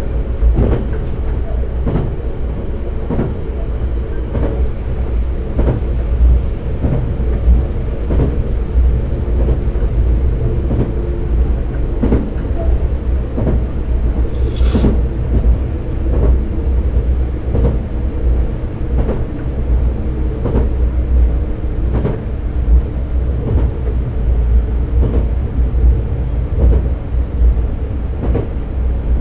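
A diesel railcar running along the track, heard from inside: a steady low engine and running rumble with the wheels clacking over rail joints at irregular intervals. A brief high hiss cuts in about halfway through.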